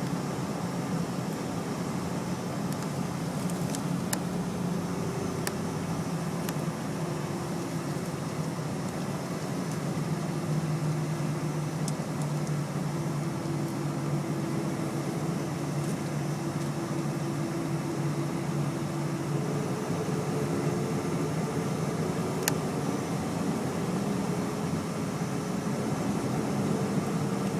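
Cabin noise inside a Boeing 737-300 jetliner: a steady hum from the engines and air conditioning, with a couple of tones that drift slowly in pitch and a few faint clicks.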